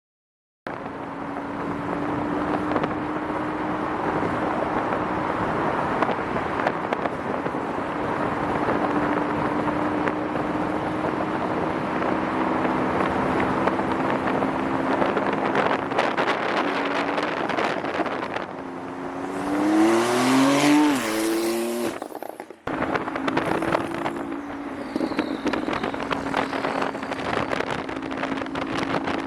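Porsche 911 Turbo S engine with a custom exhaust running at steady revs. About two-thirds through, it revs up with a rising pitch, the loudest part, then drops away briefly before settling back to the steady note.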